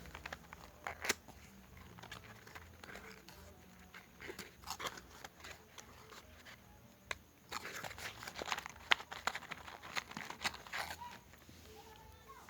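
Crinkling and rustling with scattered sharp clicks, like things being handled close to the microphone, coming in short bursts and busiest in the second half.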